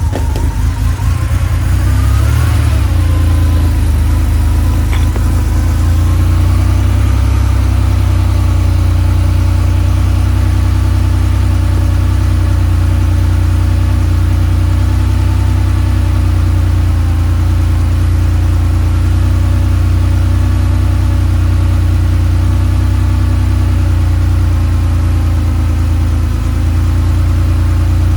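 1986 Porsche 911 Carrera's air-cooled flat-six catching on a cold start. Its note climbs and settles over the first few seconds, then it runs at a steady cold idle.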